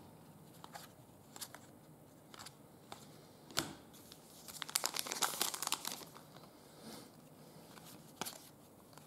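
Crinkly trading-card packaging being handled and torn, with a few light clicks and one sharper click, then a denser burst of crinkling about halfway through.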